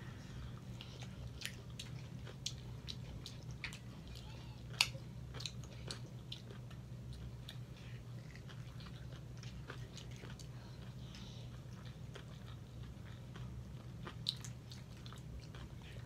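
Two people chewing and biting food, the mouth sounds picked up close, as irregular small wet clicks and smacks over a steady low hum. The sharpest click comes about five seconds in, and another near the end. Some of the bites are into corn on the cob.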